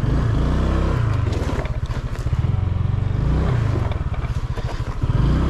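Honda Click 125cc scooter's single-cylinder engine running while ridden over rough ground, its pitch rising and falling as the throttle is worked, with knocks and rattles from the bumpy track.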